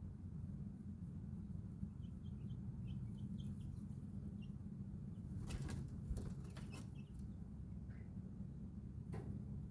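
Backyard chickens and chicks in a coop: soft high peeps, then a short flurry of wing flapping a little past the middle and one more flap near the end, over a steady low hum.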